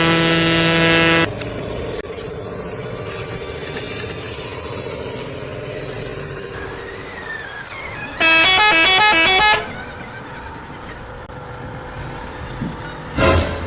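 Bus horns: a steady horn blast that cuts off about a second in, then a few seconds later a quick stepping multi-note basuri musical horn tune, and a short loud horn blast near the end, over low steady background noise.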